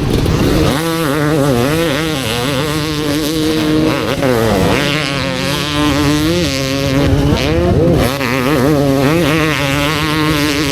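Motorcycle engine running and revving, its pitch swinging up and down again and again as the throttle is worked.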